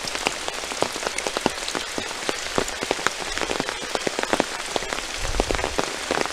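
Heavy rain falling, with many separate drops striking close by as sharp ticks over a steady hiss.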